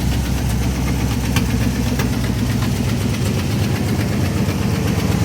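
1978 Jeep J20 V8 engine idling steadily.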